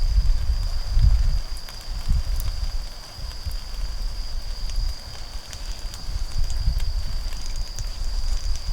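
Wood fire crackling with scattered small pops, under the steady high-pitched trill of an autumn insect that never stops. A loud low rumble swells and fades through it.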